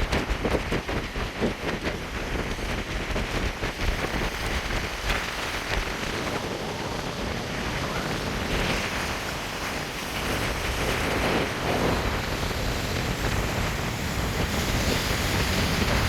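Storm wind buffeting the microphone in gusts over the rush of Atlantic surf breaking against the pier, swelling and fading with the waves.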